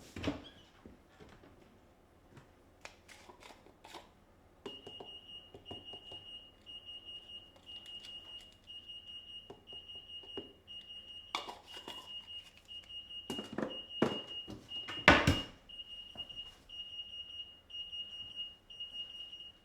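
An electronic beeper alarm sounding a steady high-pitched beep about twice a second, which starts about five seconds in and cuts off suddenly at the end. Knocks and clatter of things being handled come through it, the loudest a few seconds before it stops.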